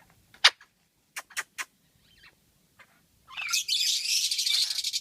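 Pet lovebirds calling: one sharp chirp, then three quick chirps, and from a little past three seconds in a loud, rapid, buzzing chatter that keeps going.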